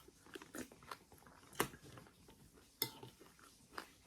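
Someone eating breakfast cereal: chewing and crunching with scattered sharp clicks, the two loudest about one and a half and three seconds in.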